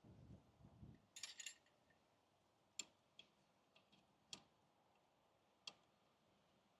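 Faint, sparse metallic clicks, about five spread irregularly over a few seconds, from spanners and sockets being handled on the brake caliper bolts, after a brief rustle.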